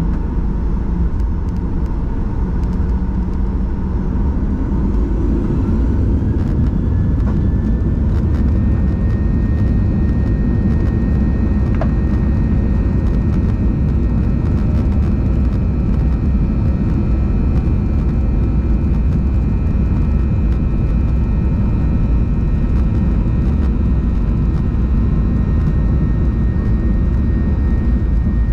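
Boeing 737-900ER's CFM56-7B jet engines spooling up, heard from inside the cabin: a whine rises about five seconds in and then holds steady over a loud, constant rumble.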